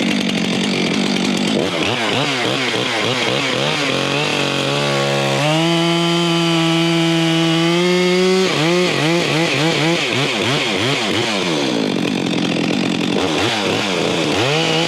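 Gas chainsaw running and revving up and down, held at steady full throttle for about three seconds midway: bucking a pine log at the 16-foot mark.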